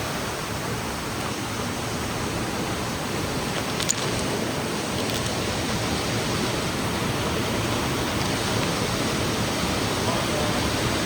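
Steady rushing of a waterfall pouring into a pool, with a single short click about four seconds in.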